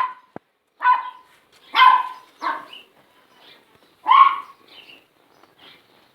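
A dog barking: a string of short barks with pauses between them, the later ones fainter.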